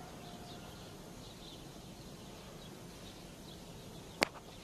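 Faint outdoor ambience with small birds chirping, broken by one sharp crack about four seconds in.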